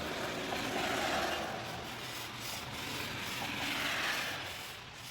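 Fine P800 grit sandpaper rubbed across the steel edge of an axe blade, a soft scraping hiss in two slow strokes, the final finishing pass of sharpening.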